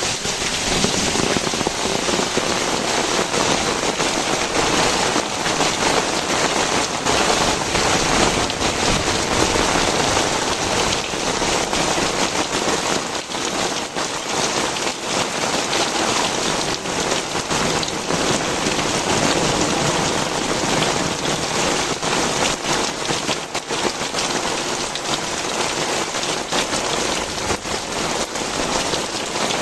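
Heavy rain pouring down steadily, a dense hiss of drops hitting the ground and surfaces close by.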